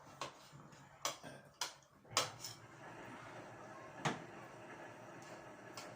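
Dishes and utensils clinking: about five sharp knocks spread out over a steady background noise.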